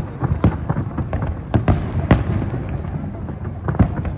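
Aerial fireworks bursting in a rapid, irregular series of sharp bangs over a low rumble.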